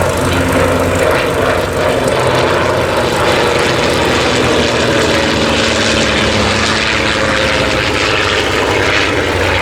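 Piston-engined propeller aircraft flying past in formation, the de Havilland DH.88 Comet racer with a Percival Mew Gull, their engines running steadily at a constant pitch.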